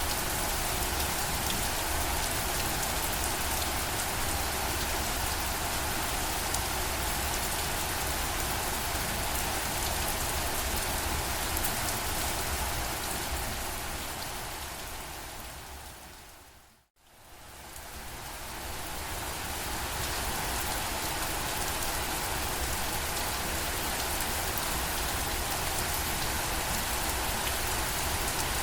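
Steady rain. A little over halfway through it fades smoothly down to silence and straight back up again, like a loop point in the recording.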